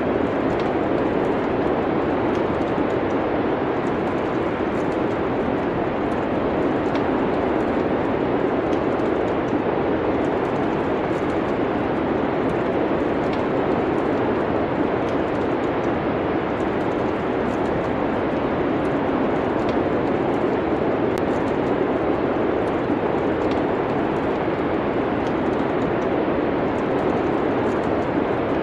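Steady windy winter-storm ambience, a constant rushing hiss, with the faint scattered pops and crackles of a wood fire burning in a fireplace.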